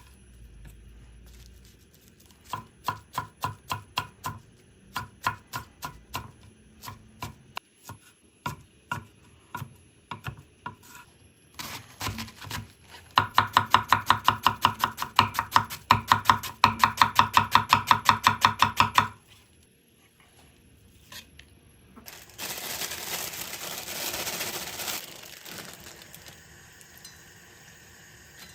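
Kitchen knife chopping on a cutting board: scattered strokes at first, then a fast steady run of about three to four chops a second for some six seconds. Near the end comes a few seconds of hissing.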